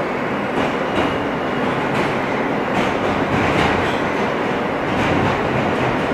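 R160 subway train running between stations, heard from inside the car: a steady rumble of wheels and running gear, with irregular sharp clicks of the wheels over rail joints.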